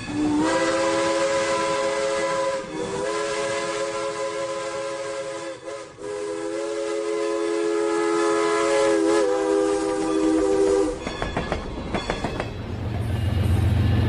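Toy train's built-in sound effect: a recorded train whistle, a chord of several tones held for about ten seconds with two short breaks, over a steam-like hiss. A run of quick clicks follows near the end.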